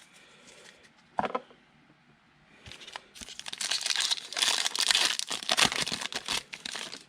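Foil trading-card pack being torn open, its wrapper crinkling and crackling densely from about three seconds in until just before the end.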